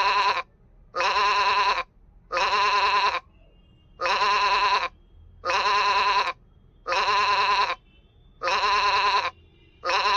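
A sheep bleating over and over: the same wavering bleat, each under a second long, repeated evenly about every second and a half.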